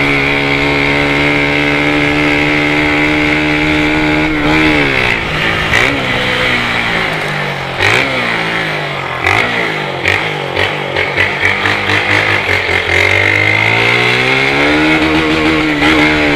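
Motorcycle with a modified (preparado) Polimet exhaust being ridden: the engine holds steady revs, drops off about four seconds in, then crackles and pops from the exhaust on the overrun before pulling back up to steady revs near the end.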